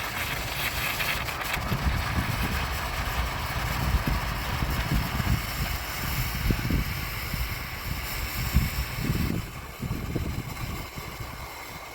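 CLR rust-remover solution gurgling and splashing as it is poured out of a motorcycle gas tank into a strainer and bucket, with irregular surges, tapering off near the end.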